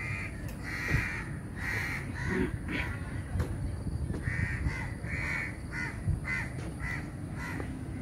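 A bird calling over and over with short, harsh calls, about ten in a loose series, over a low rumble.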